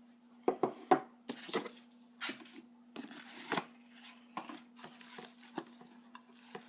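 A cardboard box being opened and its contents handled: a run of sharp knocks and clicks with short bursts of rustling, over a faint steady hum.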